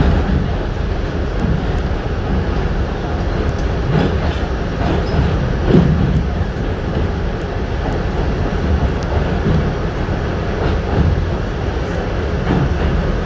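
Steady rumble of a New York City subway train heard from inside a subway car, with a few faint clicks.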